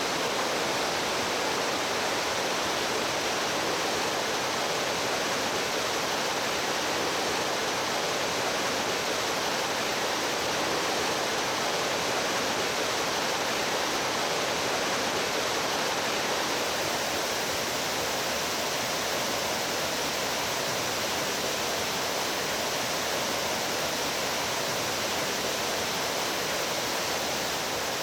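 Rushing water of a mountain stream, a steady dense splashing hiss; its tone shifts slightly a little past halfway.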